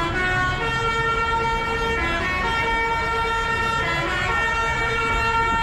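A loud melody of long held notes stepping from pitch to pitch, over the low rumble of passing engines.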